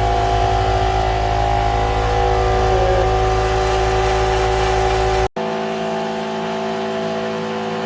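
Workshop air compressor running loudly and steadily, a constant hum made of several fixed tones. Just after five seconds the sound drops out for an instant and comes back a little quieter, with less low rumble.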